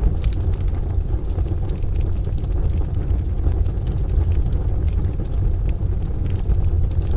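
Crackling wood fire giving scattered sharp pops and snaps over a steady, deep low rumble.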